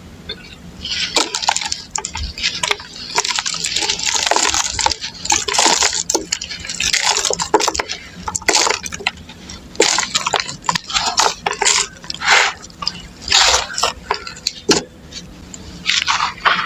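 Lumps of red dirt being crumbled, a crunchy, gritty crackle that comes in uneven bursts with short pauses between them.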